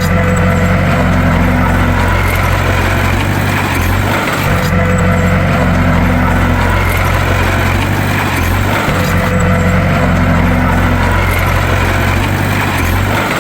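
Bulldozer engine running steadily with a deep, droning hum. The pattern repeats in a regular cycle about every four and a half seconds.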